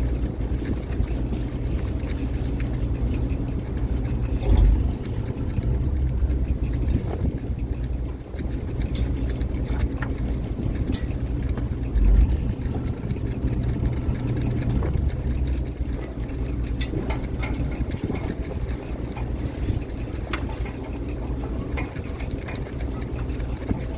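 A fishing boat's engine running steadily with a low hum, with two brief low thumps, about four and a half seconds in and again about twelve seconds in.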